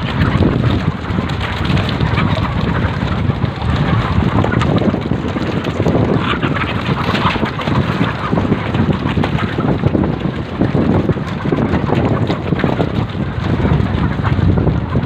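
Loud, steady rumbling noise of wind buffeting the microphone.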